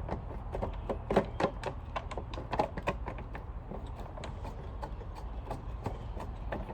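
Flathead screwdriver driving a screw into a vacuum cleaner's housing: irregular light clicks and taps, a few a second, as the blade turns and slips in the screw head.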